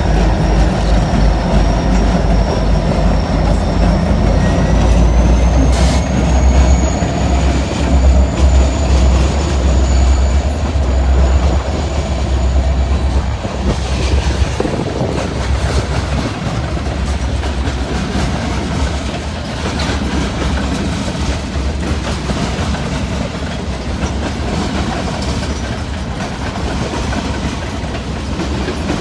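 Freight train of tank cars rolling past with a steady low rumble and wheels clicking over the rail joints. A thin, high wheel squeal rises slightly about five seconds in and dies away around the middle.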